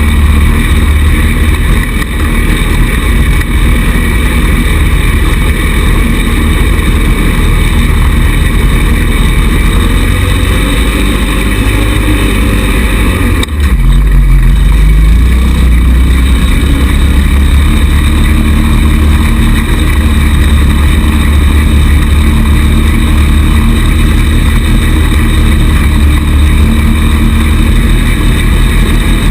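A 110cc kids' buggy's small single-cylinder four-stroke engine running under way, loud and steady, with a brief dip about halfway through, after which the pitch rises.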